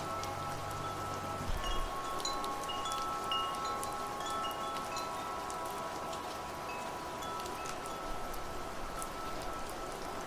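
Wind chimes ringing over steady rain: several long, sustained chime tones with short higher chime notes scattered throughout, over an even hiss of rain. A low rumble underneath stops about one and a half seconds in.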